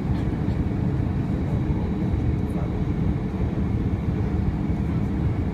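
Steady low rumble of an Airbus A320's engines and airflow, heard from inside the cabin during the approach for landing.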